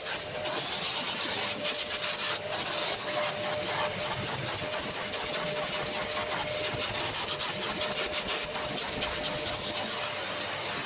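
A machine running steadily, with a constant mid-pitched whine over a hiss.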